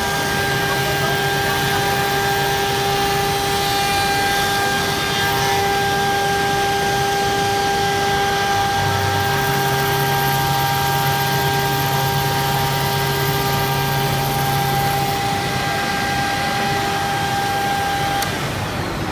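Vector template cutter running: a steady machine whine made of several fixed pitches over a noisy hum. A lower hum changes about halfway through, and the whine cuts off near the end.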